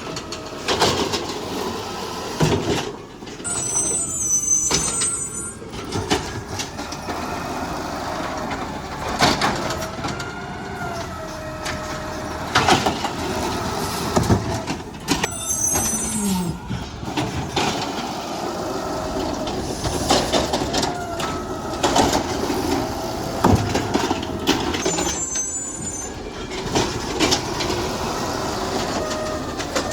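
Garbage truck at work: the engine runs with a wavering hydraulic whine, broken by repeated knocks and bangs. Short high squeals come three times.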